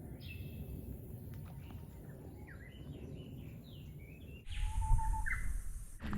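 Wild birds chirping, a run of short notes, several falling in pitch, over a low outdoor rumble. About four and a half seconds in, the low rumble suddenly gets louder.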